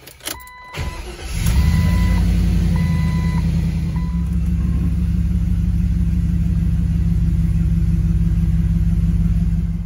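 LS Vortec V8 in a Jeep TJ starting up, catching about a second in and settling into a steady idle. A high beeping tone sounds about four times in the first few seconds. The engine sound cuts off suddenly near the end.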